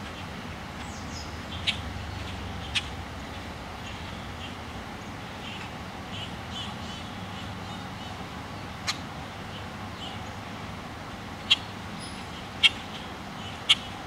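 Short, sharp bird chips, about half a dozen spaced irregularly, over a steady low outdoor rumble.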